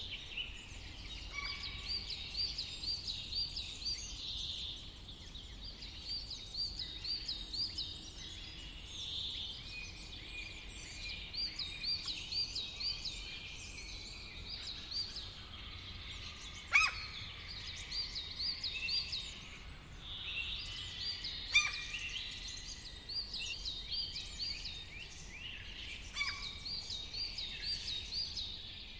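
Several woodland songbirds singing together in a summer forest, with rapid repeated trilled phrases going on throughout and two sharp, louder notes around the middle.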